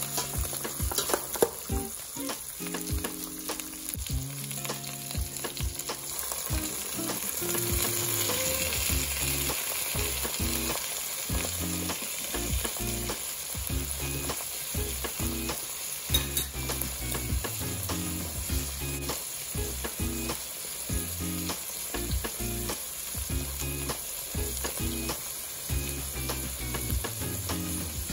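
Boiled pork hock pieces and onions sizzling as they sauté in a hot stainless steel pot, stirred with a metal ladle that clicks and scrapes against the pot.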